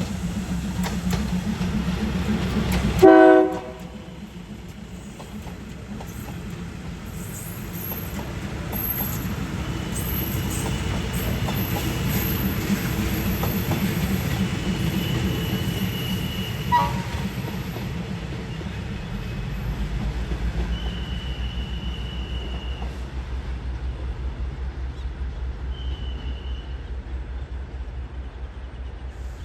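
A train running close by with its engine rumbling steadily, and one short, loud horn blast about three seconds in. Later come several high, drawn-out squeals of wheels on the rails.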